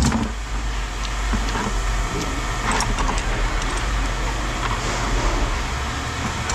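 Vehicle engine idling with a steady low rumble, with a few light clinks of scrap metal being handled, the sharpest at the very start.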